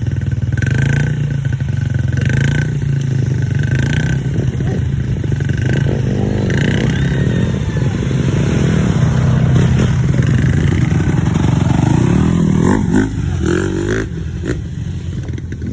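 Dirt bike engine running steadily, then revving with a rising pitch about twelve seconds in before easing off near the end.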